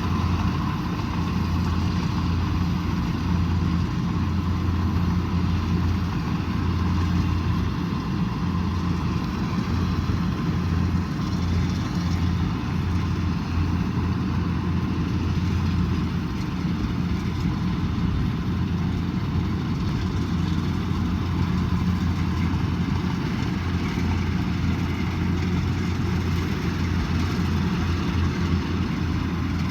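Kubota DC108X rice combine harvester running steadily, its diesel engine a constant low drone with no change in speed.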